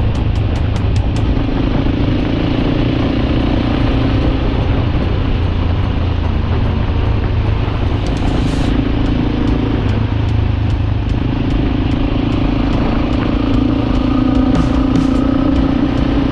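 Suzuki DR-Z dirt bike's single-cylinder four-stroke engine running steadily at cruising speed, heard from the bike with wind noise over the microphone.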